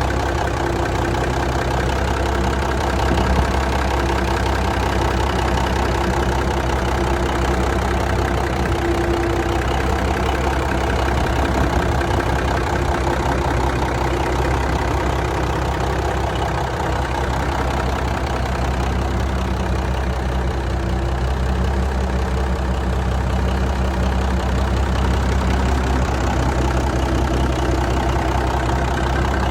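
Cummins diesel engine of a 1966 Peterbilt 288 truck idling steadily.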